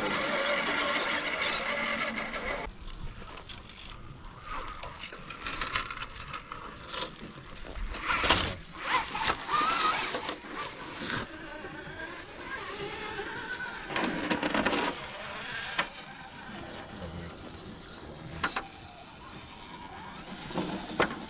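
Small electric motor of an RC rock crawler whining in short spurts, with clicks, knocks and scrapes as the truck's tires and chassis work over rock. The loudest stretch comes about eight to eleven seconds in.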